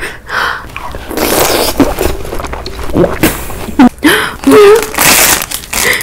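A person's loud breathy vocal noises: a run of huffs and gasps, with a few short voiced cries around the middle.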